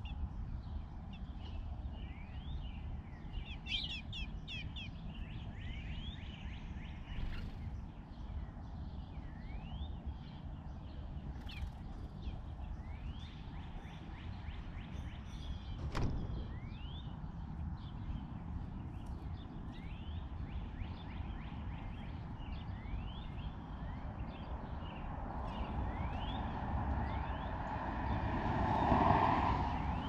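Small birds chirping, short rising notes repeated every second or so, over a steady low outdoor rumble. There is a single sharp click about halfway, and near the end a broad noise swells louder and fades.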